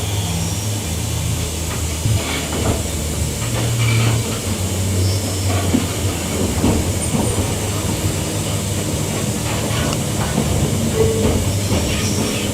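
A Queensland Rail electric multiple unit (EMU) train running between stations, heard from on board: a steady low hum over the rumble of the wheels on the track, with scattered clicks and knocks.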